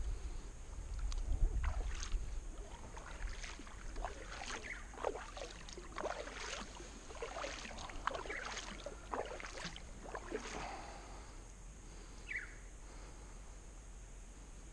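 Kayak paddle blades dipping and splashing in the river, about one stroke a second, easing off after about ten seconds. A short falling chirp sounds near the end.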